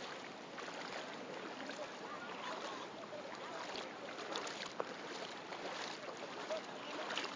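Floodwater rushing past in a steady wash of noise, with a few faint distant voices and small knocks.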